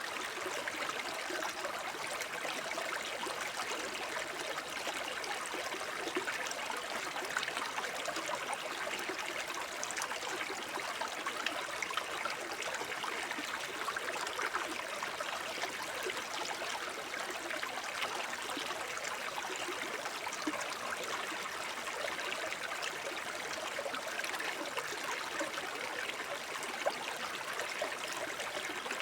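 Small forest stream babbling steadily over stones, a continuous trickling and gurgling of clear running water.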